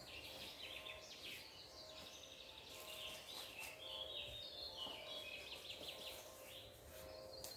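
Faint birdsong: small birds chirping and trilling over a low background hiss.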